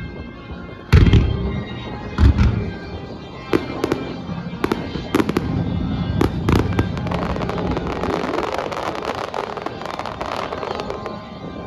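Aerial fireworks bursting over show music: two deep booms, then a run of sharp cracks, then a dense crackle that thins out near the end.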